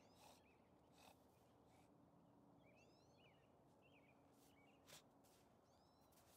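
Near silence: faint chirps of small birds, quick little rising-and-falling notes in short clusters, with a few short soft noises, the loudest about five seconds in.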